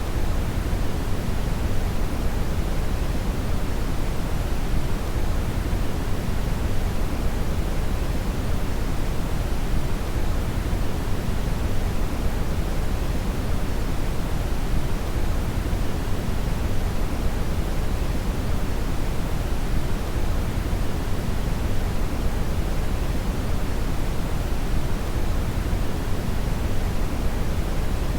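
Synthetic brown noise: a steady, deep hiss with most of its energy in the low end, unchanging throughout.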